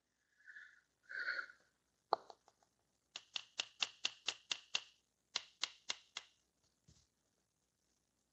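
A short hiss about a second in, likely a quick shot of WD-40 aerosol into the stuck starter-motor armature bearing, followed by a run of light, evenly spaced clicks, about five a second, then four more after a short pause, from handling the parts.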